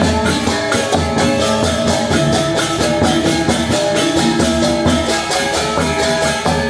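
Balinese gamelan gong ensemble playing a classical lelambatan piece: bronze metallophones and gongs sounding steady pitched tones over a fast, even beat.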